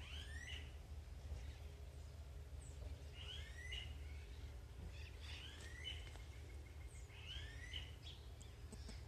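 A bird singing a short phrase of swooping notes, repeated four times about every two seconds, over a faint low rumble.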